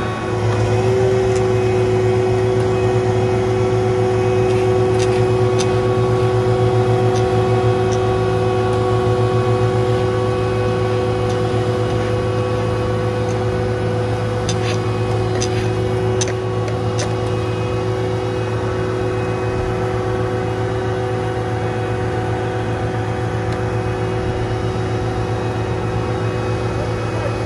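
Heavy asphalt-paving machinery running steadily: a deep engine drone with a steady whine over it, and a few light clicks about halfway through.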